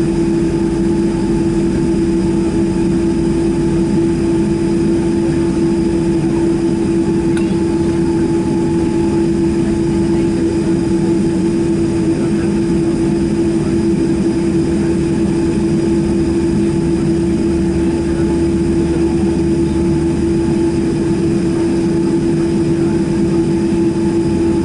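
Boeing 767-300ER jet engines running steadily at low power, heard inside the cabin as a constant hum with a steady rushing noise beneath it.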